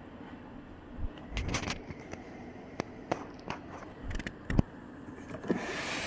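Plastic parts of a coffee maker being handled and worked apart: a string of short knocks and clicks, with a scraping rustle near the end.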